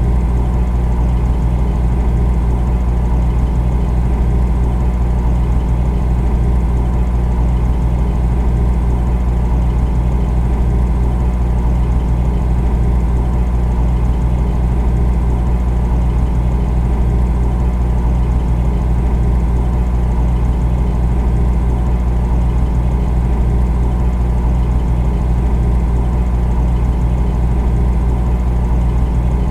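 Refrigerator running: a steady, unchanging low hum.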